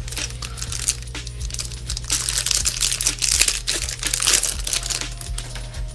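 Foil booster-pack wrapper crinkling and crackling as it is handled, with many small clicks, loudest from about two seconds in until nearly five.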